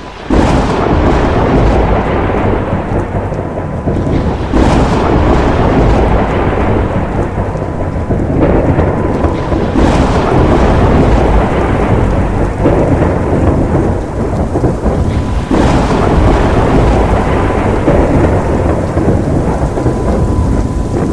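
Heavy rain pouring in a thunderstorm with thunder rumbling, loud and continuous, surging several times.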